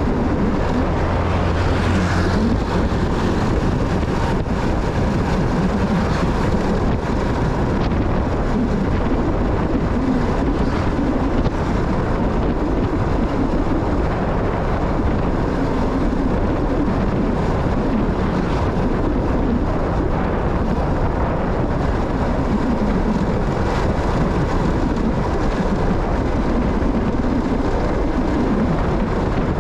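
Motorcycle on the move: the engine runs steadily under heavy wind noise on the microphone.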